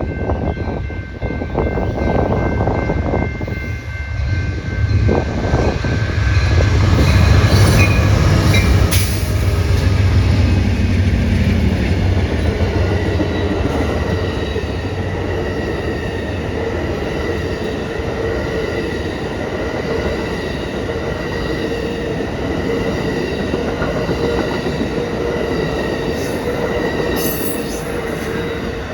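Amtrak train #5 rolling past: the diesel locomotives pass with a heavy rumble, loudest from about 6 to 12 seconds in, then the passenger cars roll by. Steady high-pitched squealing from the wheels runs under the passing cars.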